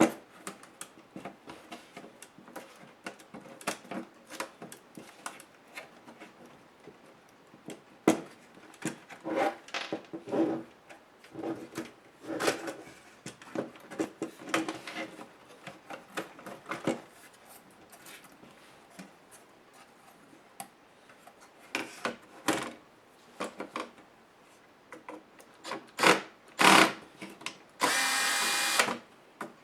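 Clicks and clatter of plastic laptop case parts and small screws being handled and pried apart, then an electric screwdriver whirring steadily for about a second and a half near the end.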